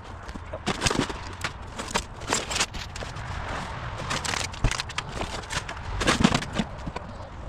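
Irregular knocks and clatter with scraping over a low steady rumble.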